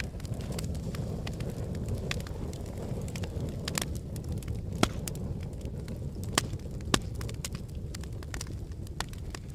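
Lava flow: an irregular crackle of sharp cracks and clicks over a steady low rumble, with a few louder cracks in the middle.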